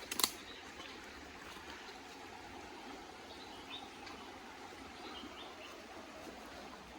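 Outdoor rural ambience: a steady faint hiss with a few short, faint bird chirps scattered through it, and a single sharp click about a quarter second in.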